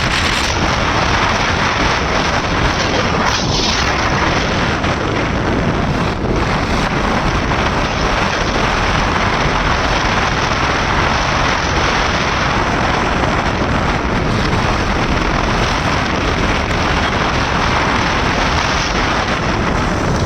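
Steady wind rush buffeting the microphone while riding a KTM RC 390 motorcycle, with the bike's single-cylinder engine and the tyres on the wet road running underneath.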